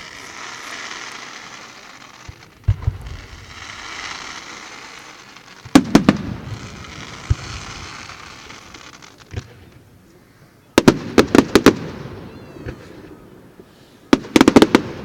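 Fireworks going off: a hissing, crackling stretch, then three volleys of sharp bangs, about six seconds in, around eleven seconds, and near the end.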